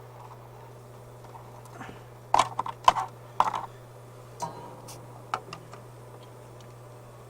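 Small hand tools and parts being handled on a workbench: a quick cluster of sharp clicks and clatters about two seconds in, then a few lighter ticks, over a steady low hum.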